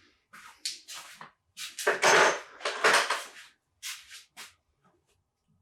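Irregular clinking and rattling of loose metal timing parts from a Ford 4.0L SOHC V6 (chains and tensioners) being handled. The loudest rattling comes about two to three seconds in.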